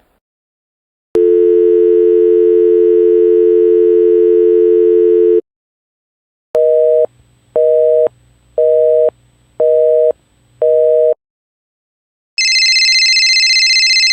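Telephone line tones from a sound-effects library. First a steady dial tone for about four seconds, then a busy signal of five evenly spaced beeps, then a high, fast-warbling electronic telephone tone for about two seconds near the end.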